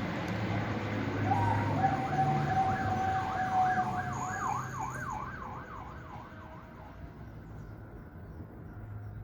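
A siren yelping, its pitch swinging up and down quickly, about twice a second, for several seconds before it fades out, over a low steady hum.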